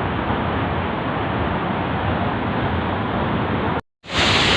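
Rushing water of a waterfall running strong and high, a steady noise. A little before the end it cuts out for a moment and comes back louder and brighter.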